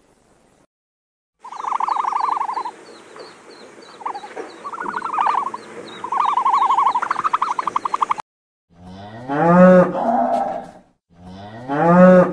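Domestic tom turkeys gobbling, several quick rattling gobbles over a faint steady chirping. After a short silence a bull moos twice, two long low calls that rise and fall.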